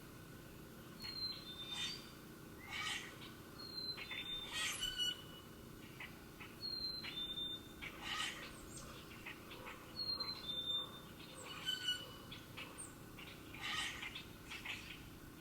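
Birds calling: short high whistled notes, each followed by a slightly lower one, repeating every couple of seconds, mixed with quick chirps.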